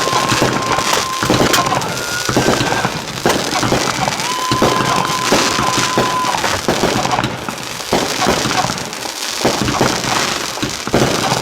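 Fireworks going off: a run of sharp bangs and crackling, with two long steady whistle-like tones and a shorter higher one among them.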